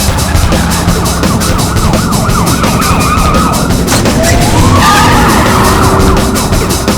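Film car-chase soundtrack: wailing sirens that slide up and down in pitch, over a fast, driving music beat and car noise.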